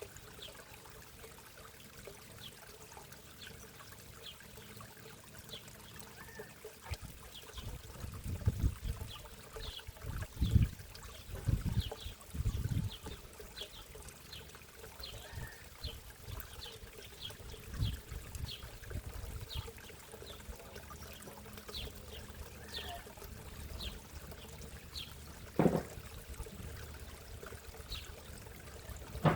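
Backyard pond water trickling steadily, with a bird chirping over and over. A burst of low bumps or rumbles comes partway through, and there is a single sharp knock near the end.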